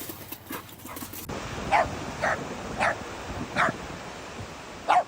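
A dog barking: a string of five short barks, starting about a second in and coming roughly every half second to second.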